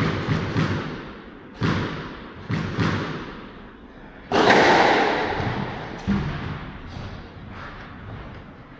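Squash rally: the ball cracks off rackets and the court walls, a sharp hit every second or two, each with a short echo. The loudest strike, about halfway through, rings on longest.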